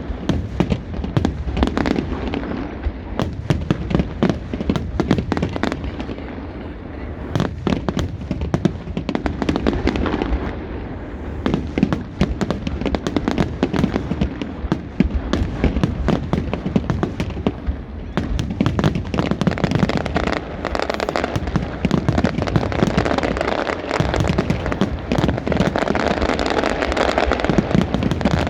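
Aerial fireworks display: a dense, unbroken barrage of shell bursts and crackling bangs, growing thicker toward the end.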